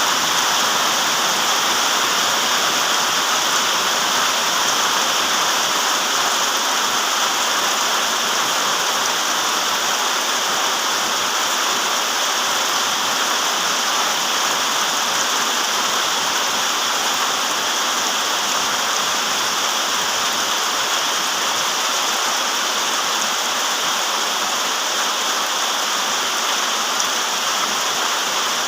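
Steady rain falling, an even hiss that holds constant throughout, with little deep rumble.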